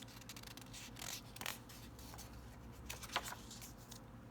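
Faint paper rustles from a picture book's page being turned, in two short bursts.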